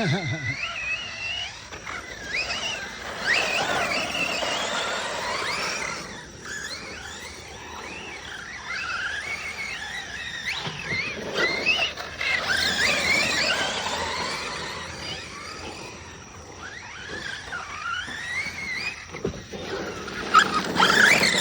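RC monster truck being driven hard, its motor whining up and down in pitch with repeated bursts of throttle, over a rushing noise from the tyres and ground.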